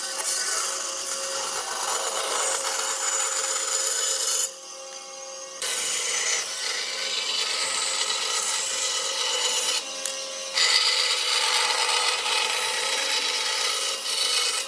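A tool sawing or abrading wood, a steady rasping noise that drops away abruptly twice for about a second.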